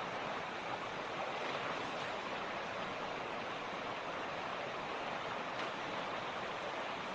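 Mountain creek water rushing and splashing over rocks in a steady, even flow.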